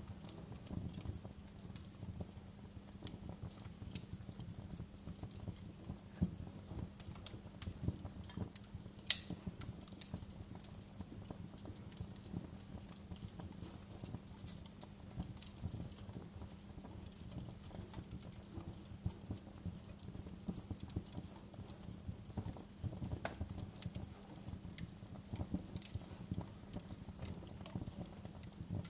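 Wood fire burning in a fireplace, crackling with frequent small irregular pops over a low steady rumble; one sharper pop about nine seconds in.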